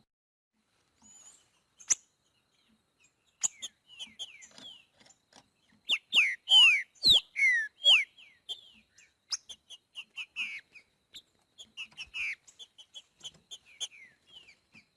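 Green-winged saltator (trinca-ferro) singing the boiadeiro song: after a few quiet seconds come loud whistled phrases of sweeping down-slurred notes about halfway through, then a run of short, quick notes.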